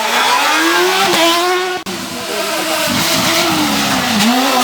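Rally car engine revving hard, its pitch climbing and falling with throttle lifts and gear changes. There is a sudden momentary break about two seconds in.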